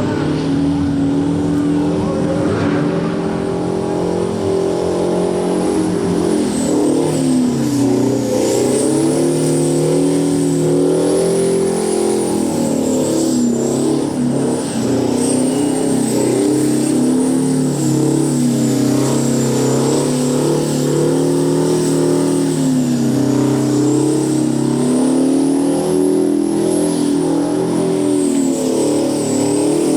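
Twin-supercharged, quad-turbo Detroit 16V92 V16 two-stroke diesel held at high revs under load in a burnout, with the engine note rising and falling and a high blower whine following the revs.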